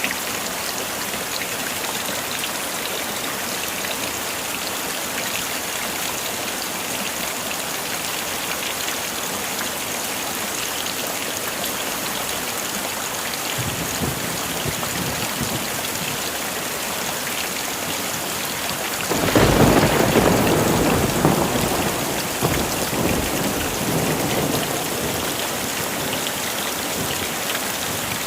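Heavy rain falling steadily. Past the middle a faint low rumble of thunder comes in, and a few seconds later a louder thunder roll starts suddenly and rumbles away over several seconds.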